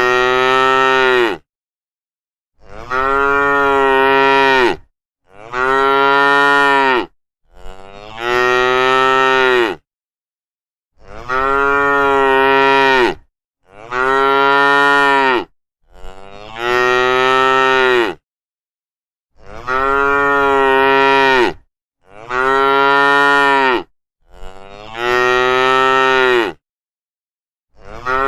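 Cattle mooing: about ten long, drawn-out moos, one every two to three seconds, each holding a steady pitch and dropping off at the end, with short silences between.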